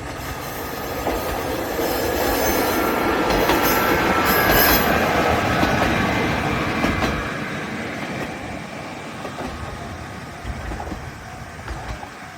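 Diesel railcar passing close by. Its rumble and wheel noise grow to a peak about four to five seconds in and then fade, with a thin high-pitched squeal from the wheels near the loudest point.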